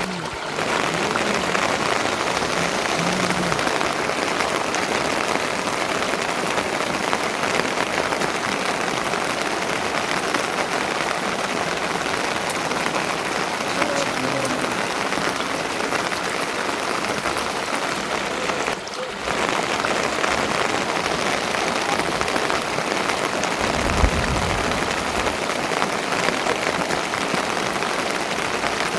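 Steady rain falling, an even hiss of drops, with a single low thud near the end.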